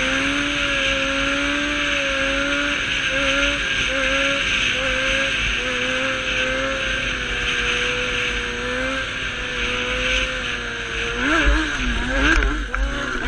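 A motor vehicle's engine runs at a fairly steady speed, with a loud rush of wind and road noise. Near the end the engine pitch rises and falls quickly several times.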